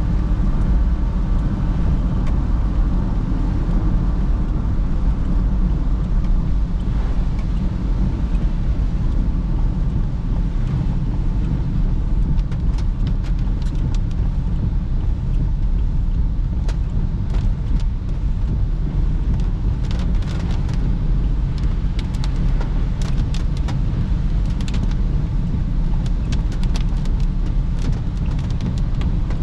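Perodua Bezza heard from inside the cabin while driving: a steady low engine and road rumble. From about twelve seconds in come scattered sharp ticks, more frequent in the second half.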